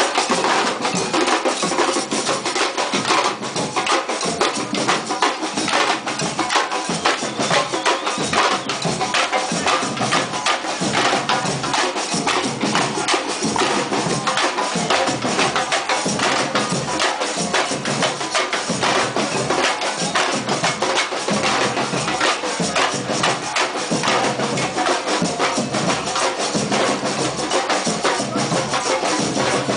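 Procession drums playing a dense, continuous beat of many strikes.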